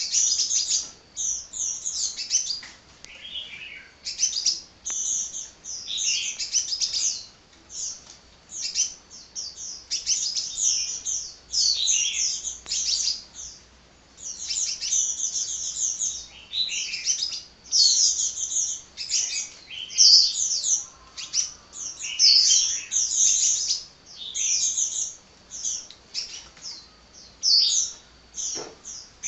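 Sunbird (the bird called 'kolibri' in Indonesia) singing a rapid, continuous run of high chirps and twitters, with only short pauses.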